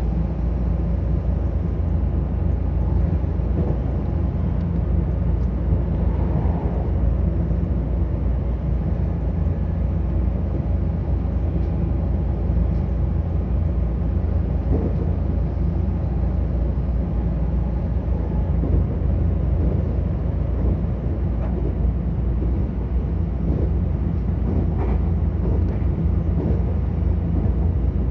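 A JR West 225-series and 223-series electric train running, a steady low rumble with no change in level.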